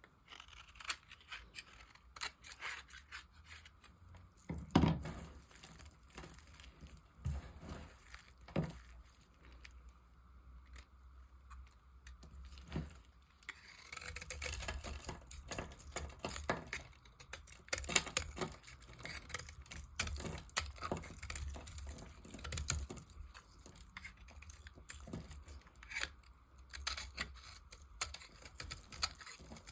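A blade cutting through dry soap: crisp scraping and crackling as pieces break off, with sharp clicks throughout. The cutting grows denser about halfway through, and the loudest snaps come about five seconds in and near eighteen seconds.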